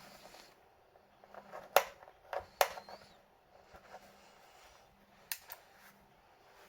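A handful of sharp clicks and light taps from small hard parts being handled during laptop work, the loudest about two seconds in and again just past halfway.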